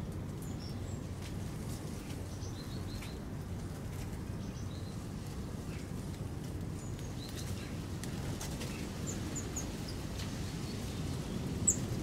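Small birds chirping in short, scattered high calls over a steady low outdoor rumble, with one sharper, louder chirp near the end.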